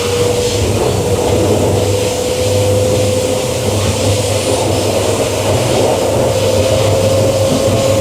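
Queensland Rail EMU electric train running, heard from on board: a steady traction-motor whine that rises slowly in pitch as the train gathers speed, over steady low running noise and hum.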